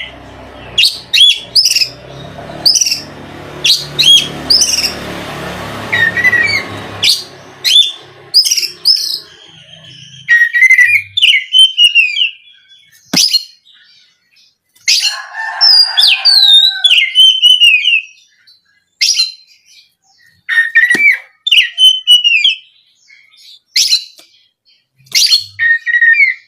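Oriental magpie-robin (kacer) singing in loud, short bursts of whistled and gliding notes with brief pauses between phrases, mixed with a few sharp clicking notes. A low background rumble runs under the first seven seconds or so.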